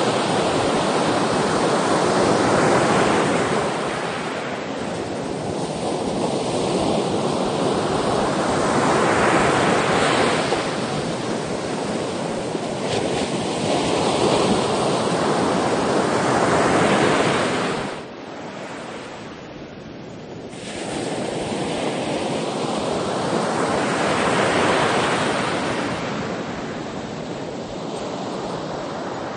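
Ocean waves breaking and washing ashore in slow surges that swell and fade every few seconds, with a brief lull about two-thirds of the way through.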